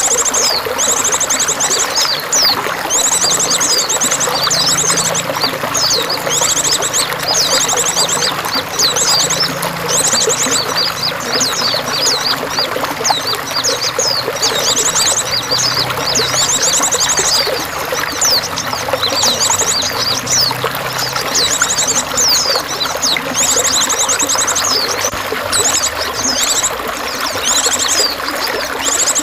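Steady running water with small songbirds chirping over it in quick, high trills repeated again and again.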